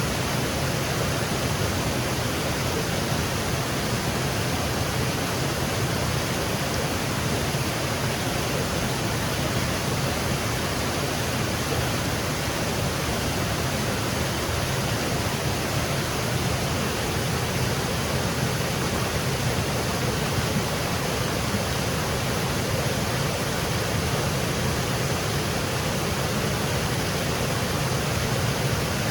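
Small woodland waterfall cascading over rocks: a steady, even rushing of falling water with no breaks.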